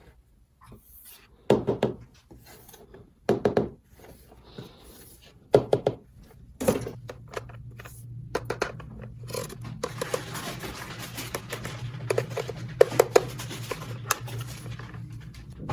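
Sharp clicks and knocks in short clusters, as of small hard objects being handled. A steady low hum comes in about halfway through.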